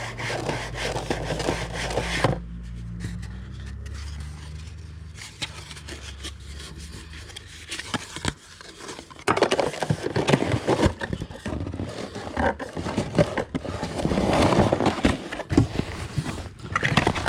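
Packaging being handled and opened by hand: irregular scraping, rustling and tapping, busier and louder in the second half.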